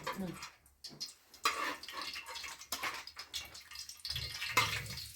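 Water pouring and splashing, with a few light knocks, after a short quiet moment.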